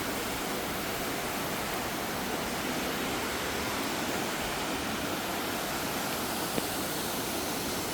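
Waterfall: a steady rush of falling water, even and unbroken, with one faint click about six and a half seconds in.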